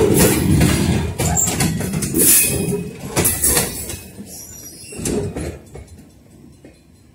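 Freight cars rolling slowly past, steel wheels clicking and clanking on the rails. The sound fades away over the second half as the last car, a covered hopper, clears.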